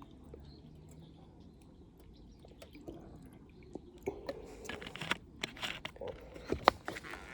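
A person eating: chewing and mouth sounds with sharp clicks. It is quiet at first and gets busy in the second half.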